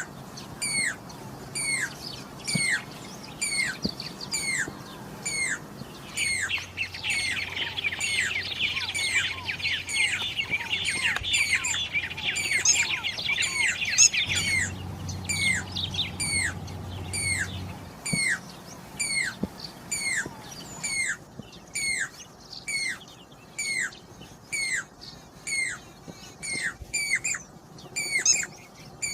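Pied cuckoo (Jacobin cuckoo) calling: a sharp, falling whistled note repeated about one and a half times a second. From about six to fourteen seconds in, a dense twittering of other birds sounds beneath it.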